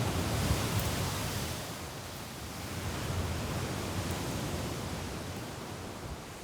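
Surf washing onto a beach in strong wind: a steady rushing hiss that swells about half a second in and again around three seconds, over a low wind rumble.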